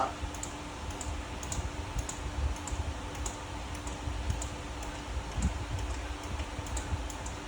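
Hand fluid pump being worked to push Dexron III ATF into a manual transmission: faint, irregular light clicks, one to three a second, over a low rumble and a steady hum.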